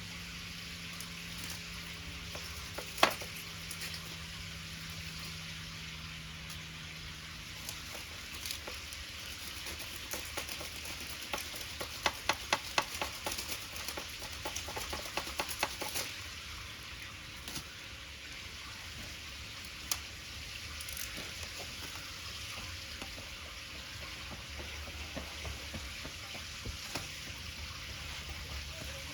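Pancake batter sizzling steadily in a pan over a wood fire, with scattered sharp pops and clicks and a quick run of them in the middle.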